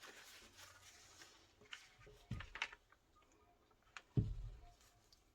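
Faint scraping and light clicks of a stick working thick acrylic paint on a stretched canvas, with one dull thump about four seconds in.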